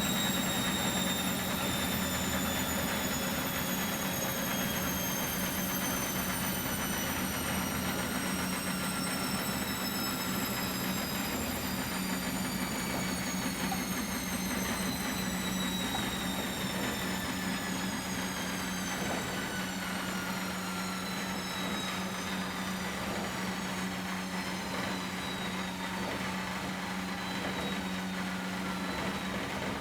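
Miele Professional WS 5426 washing machine coasting down from a spin: a high motor whine falls slowly in pitch throughout, over a steady low hum, and grows gradually quieter as the drum slows.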